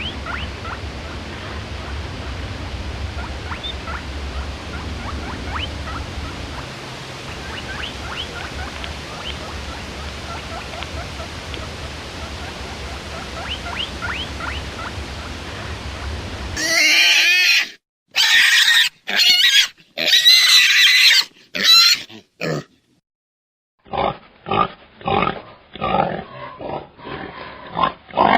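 Steady outdoor background hum with faint, short high chirps for most of the time. About two-thirds through it switches suddenly to loud, high-pitched animal squeals in short bursts. After a brief silence comes a quick run of shorter, muffled animal calls.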